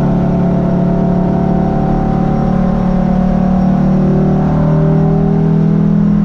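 Volvo T5 turbocharged inline-five race engine running, heard from inside the cabin with its rear exhaust muffler fallen off. The engine note eases down as the car slows, then rises again as it accelerates near the end.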